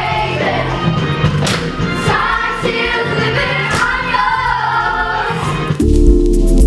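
Several voices singing together over instrumental accompaniment. Near the end the voices stop and a held chord with bass carries on.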